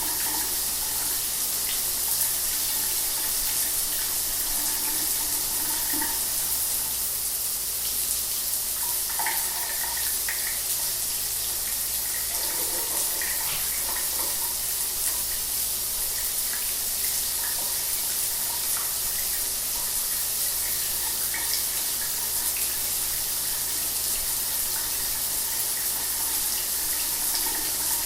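Shower water running steadily: an even hiss of spray with small splashes scattered through it.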